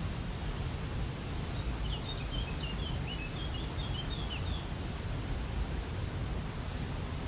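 Steady rush of a waterfall, heaviest in the low end. Over it a small bird twitters a quick run of short, high chirps from about one second in to past the middle.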